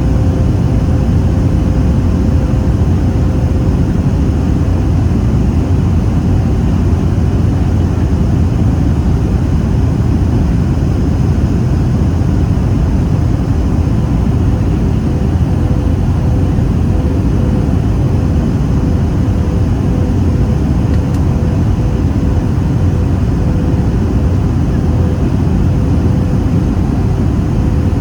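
Steady cabin noise of a Boeing 737-800 in flight, heard from a seat over the wing: the CFM56-7B engines and rushing air make an even, deep noise with a faint steady hum above it.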